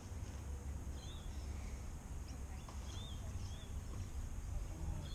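A bird chirping several times in short, high, arched notes a second or two apart, over a steady low rumble.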